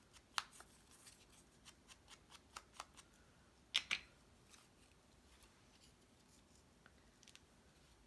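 Cardstock pieces being handled and pressed into place: scattered light paper clicks and rustles, with a louder double crackle of paper about four seconds in, then only a few faint ticks.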